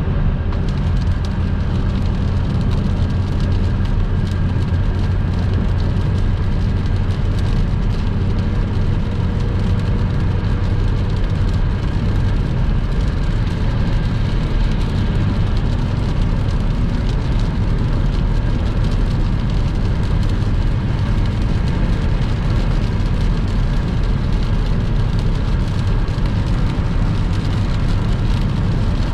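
Steady road noise of a car driving on a wet motorway in heavy rain: low engine and tyre rumble with the hiss and patter of rain.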